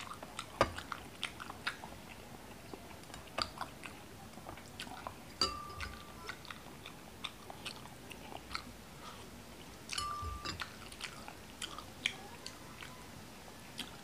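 Close-up chewing of balot (boiled duck egg embryo), with many short wet clicks and smacks from the mouth scattered throughout.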